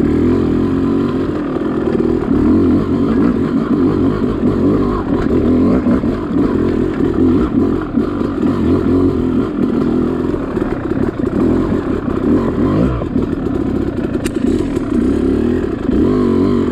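Yamaha YZ dirt bike engine running continuously under load, its revs rising and falling as the bike is ridden along a trail.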